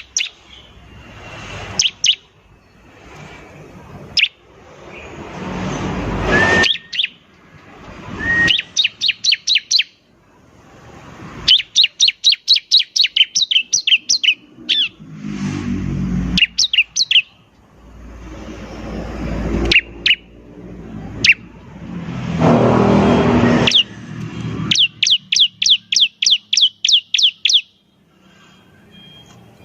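Bar-winged prinia (ciblek) singing: rapid series of sharp, high chip notes, about six to eight a second, given in repeated bursts. Between them come swells of harsh rushing noise that build up and stop abruptly.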